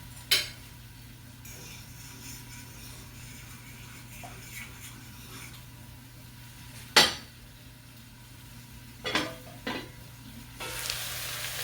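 Metal cookware clanking: a utensil or lid knocks sharply against a pot once early on, again about seven seconds in, then twice more in quick succession, followed by a short hiss near the end.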